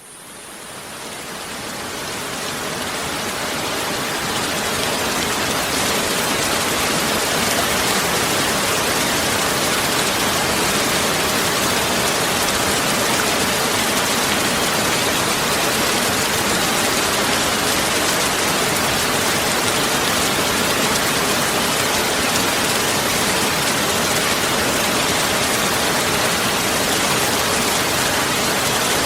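Heavy rain pouring steadily, a dense even hiss of falling water, fading in over the first few seconds and then holding level.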